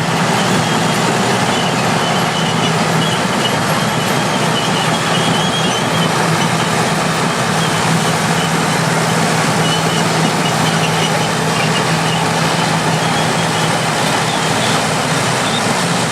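Engines of vintage crawler bulldozers and scrapers running and working, a steady dense mechanical noise with a low hum throughout and a faint, broken high tone that comes and goes.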